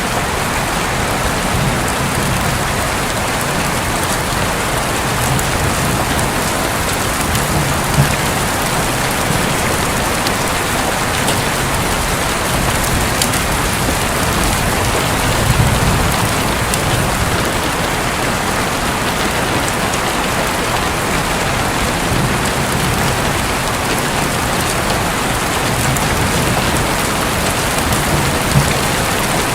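Steady heavy rain drumming on a roof, with low rumbles of thunder that swell about halfway through and a couple of louder single drop hits.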